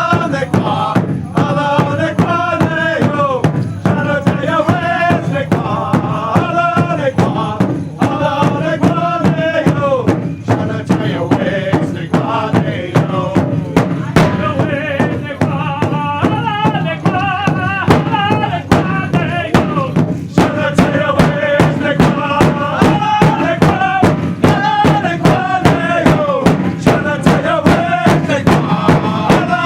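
Powwow drum group: voices chanting a song over a steady, even drumbeat, the sung phrases falling in pitch.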